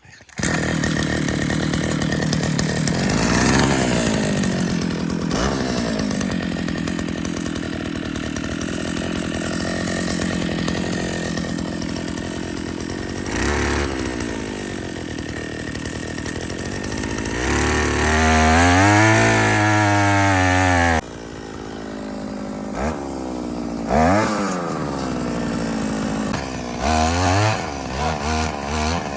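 Small two-stroke engine of a petrol earth auger running hard while boring holes in the ground. Its pitch dips and rises again and again as the auger loads up and frees. There is a sudden change in the sound about two-thirds of the way through.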